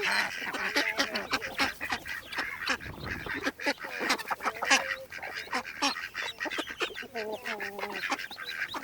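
Farm ducks and geese calling: a run of repeated quacks and honks.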